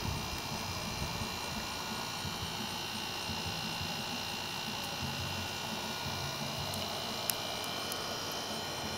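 Steady electrical hum with a high whine, and one sharp click about seven seconds in.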